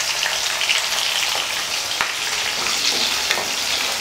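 Shallots and fresh curry leaves sizzling and crackling in hot oil in a kadai, stirred with a wooden spatula.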